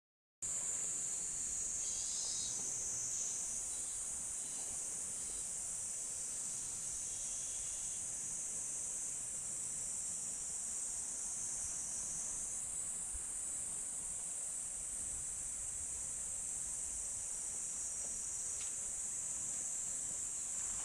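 Steady high-pitched chorus of insects singing, cutting in abruptly about half a second in, with a few faint brief chirps early on.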